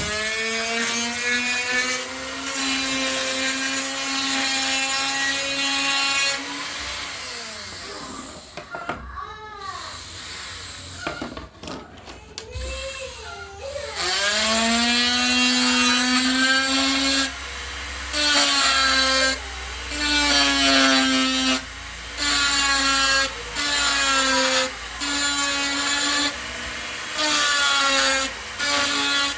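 Sewing-machine motor driving a homemade flexible-shaft rotary tool, whining as it spins up to a steady high speed. Around the middle it slows and speeds up unevenly, then near the end it is run in short bursts, cut off and restarted about every second and a half.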